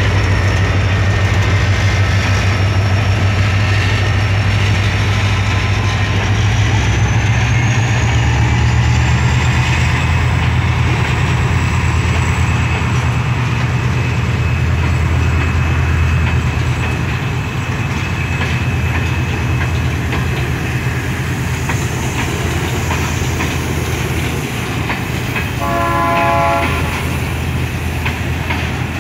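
Freight wagons rolling past with a steady rumble and clatter of wheels on rail joints, over a low drone that eases off about halfway through. Near the end a short horn blast sounds once.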